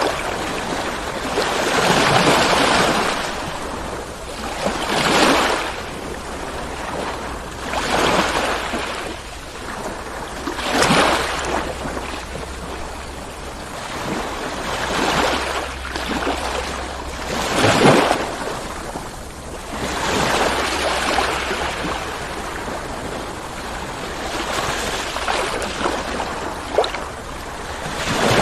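Ocean waves rolling in and breaking, a surge of surf about every three seconds over a steady wash of water.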